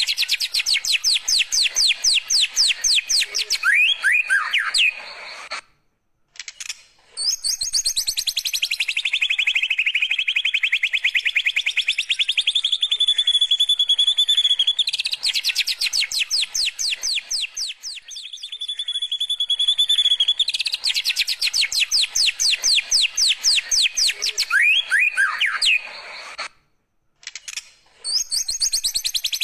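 White-rumped shama (murai batu) song in canary-style rapid trills: long runs of fast, evenly repeated notes alternating with high warbled phrases, broken by two short gaps. The same sequence comes round again about every 21 seconds, as a looped song recording does.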